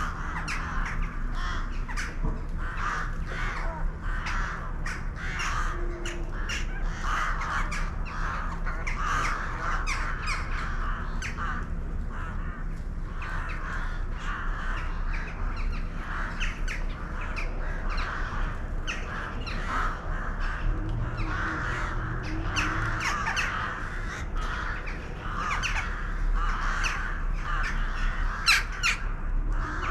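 A flock of birds calling, many short calls overlapping without a break.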